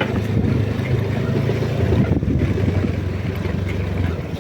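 Motorcycle engine running at a steady speed while riding, with wind on the microphone.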